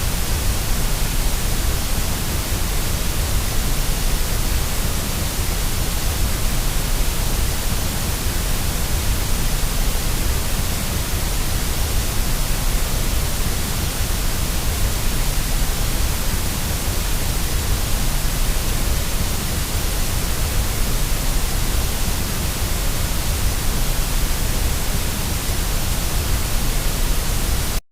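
Steady white noise: an even hiss across the whole range with a deep rumble underneath. It cuts off suddenly right at the end.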